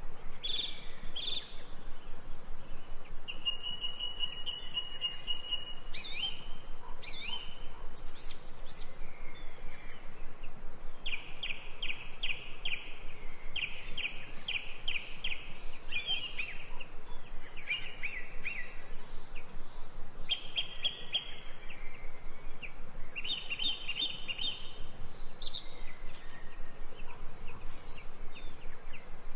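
Several songbirds chirping and singing over a steady background hiss, with quick runs of repeated high notes and one held trill a few seconds in.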